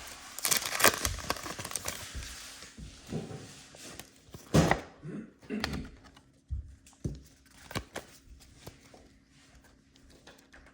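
Foil booster-pack wrapper crinkling as it is torn open, followed by scattered soft taps and clicks of trading cards being handled, with one louder thunk about halfway through.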